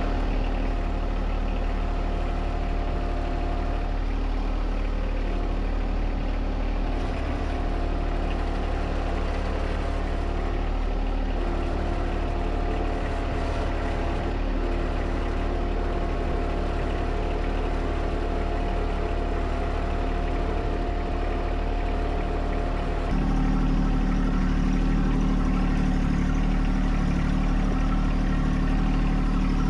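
John Deere 1025R compact tractor's three-cylinder diesel engine running steadily while the tractor drives. About three-quarters of the way through, the engine note changes and gets louder, then holds steady.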